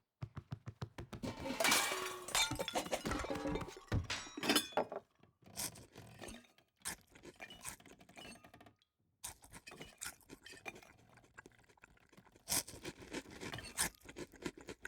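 Animated-film sound effects of a frantic scramble up kitchen shelves: rapid clattering and clinking of crockery, with wooden knocks and scrapes. It comes in several flurries with short breaks between them.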